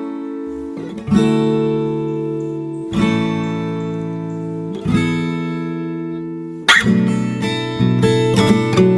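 Acoustic guitar playing slow chords, each struck about every two seconds and left to ring out and fade, then quicker strumming starting about two-thirds of the way through.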